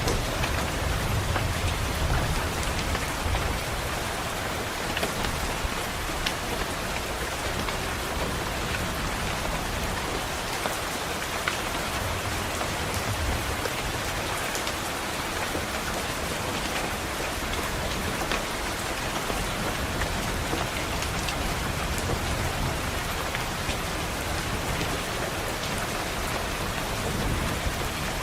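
Steady rain against a window glass, an even hiss with scattered sharp drop ticks. Low rumbles of distant thunder swell up a few times, about a second in, around the middle and near the end.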